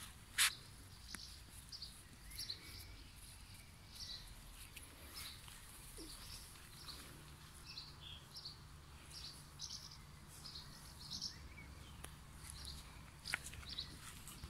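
Small birds chirping in the background, a string of short high chirps throughout, with a sharp click about half a second in.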